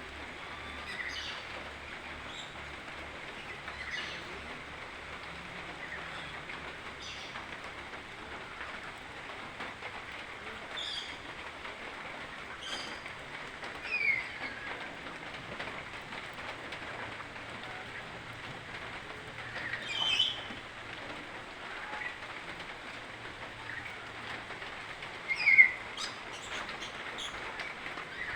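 Cassowary chick peeping: short high chirps every second or two, with a few louder short downward whistles, over a steady background hiss.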